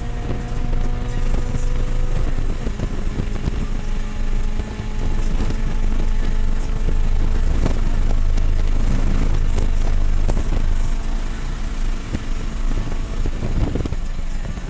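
FA20 flat-four engine of a Toyota 86-platform track car, heard from inside the cabin at full throttle at over 100 mph, with an upshift into fifth gear about five seconds in, over loud wind and tyre noise. The throttle comes off near the end as braking begins.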